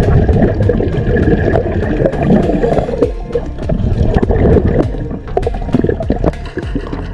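Sea water sloshing and gurgling close up, irregular and full of small splashes and clicks.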